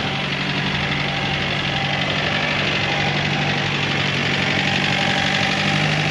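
An engine idling steadily, with a constant low hum that does not change.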